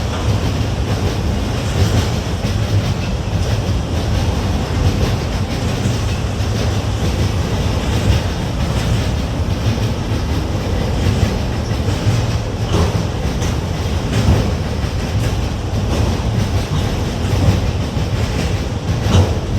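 Freight train cars rolling past: a steady rumble with the clack of wheels over rail joints now and then.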